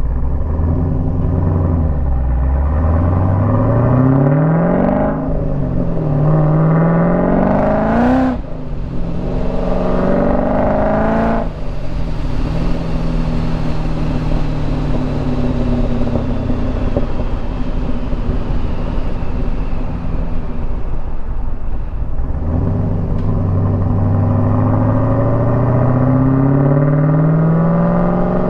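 Supercharged 408 cubic-inch LS V8 in a C5 Corvette, with a Summit Racing Pro LS 8722R1 cam, accelerating hard under boost through the gears. The engine note climbs and drops back at upshifts about 5 and 8 seconds in, eases off near 12 seconds, holds steady at cruise, then climbs again in a long pull from about 22 seconds.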